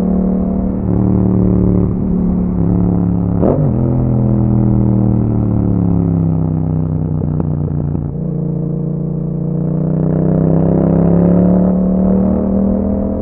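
Yamaha MT-07's parallel-twin engine running through an Akrapovič exhaust under way. The engine note falls for about eight seconds, with a brief sharp throttle blip about three and a half seconds in, then rises again as it pulls.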